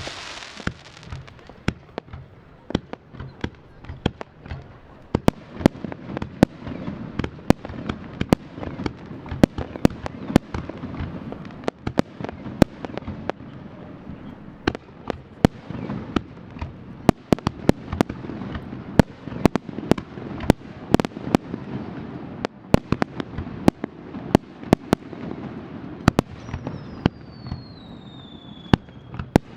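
Aerial fireworks display: a dense barrage of sharp shell bursts, several bangs a second, over a low rumble. Near the end a whistle tone falls in pitch.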